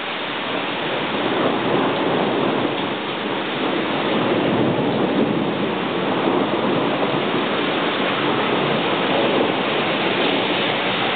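Heavy rain pouring steadily in a thunderstorm downpour.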